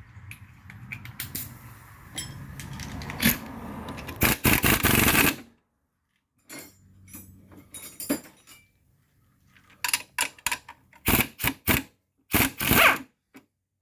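Hand tools at work on the bolts of an engine bracket: about five seconds of steady noise that grows louder, then scattered sharp metallic clicks, clinks and rattles of tools and bolts.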